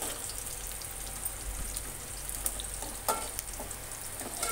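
Sliced onions, green chillies and curry leaves sizzling in hot oil in a steel pot as they are stirred with a metal spoon, with a few light clinks of the spoon against the pot. The onions are being softened before the spices go in.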